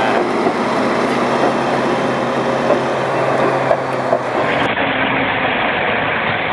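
Heavy vehicle engine running steadily. About four and a half seconds in, the sound cuts abruptly to a rougher, noisier engine sound from another vehicle.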